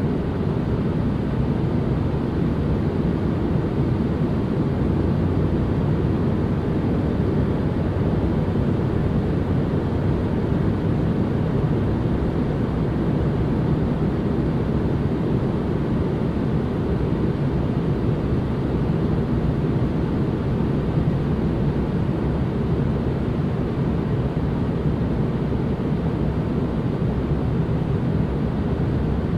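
Steady, unchanging noise weighted to the low end, with little treble: a relaxation white-noise track that sounds more like a low rumble than a hiss.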